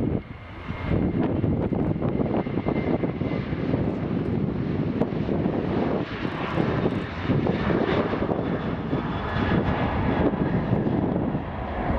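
Boeing 737 jet engines running at high power as the airliner departs: a loud, steady, rumbling noise with no clear pitch.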